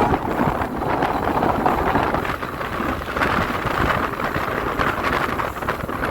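Passenger train running along the line, a steady rumble with wind buffeting the microphone.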